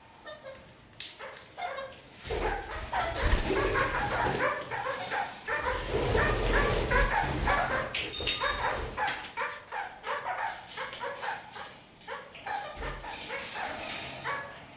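Red-crowned parakeets (kakariki) chattering: a rapid run of short, high calls that swells a couple of seconds in and thins out near the end.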